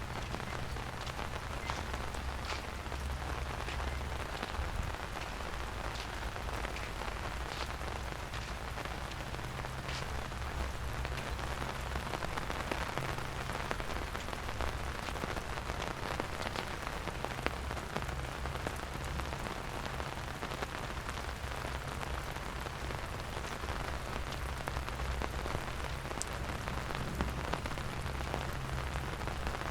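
Steady rain falling, an even hiss with scattered individual drops tapping close by.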